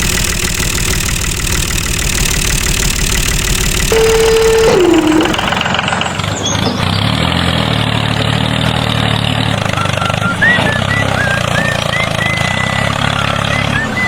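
An engine runs steadily. About four seconds in, a short held tone slides down in pitch, and high chirps come in near the end.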